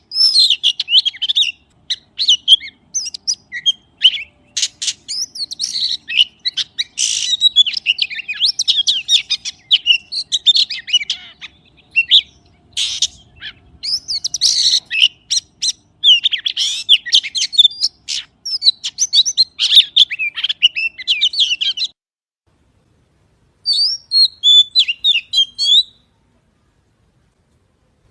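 Magpie singing: fast, chattering, warbled phrases with sharp clicks, coming in bursts. It cuts to complete silence twice near the end.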